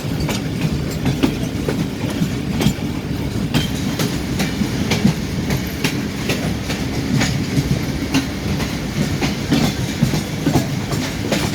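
Passenger train running past on the tracks: a steady rumble from the wheels and coaches, with the clickety-clack of the wheels going over the rail joints.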